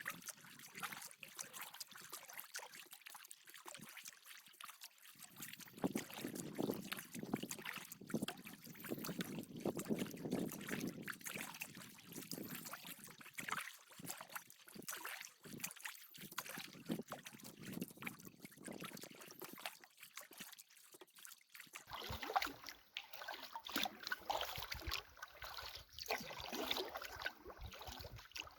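Water trickling and splashing around a paddled canoe: paddle strokes and drips. The sound changes character about three quarters of the way through.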